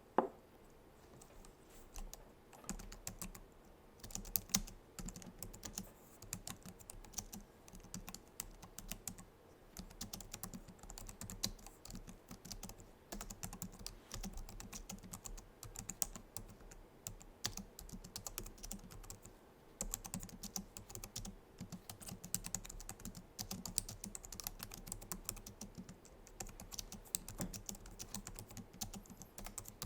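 Continuous typing on a Logitech MX Keys keyboard: a dense, irregular run of soft scissor-switch key clicks, with brief lulls about 2, 10 and 20 seconds in. A single louder knock at the very start.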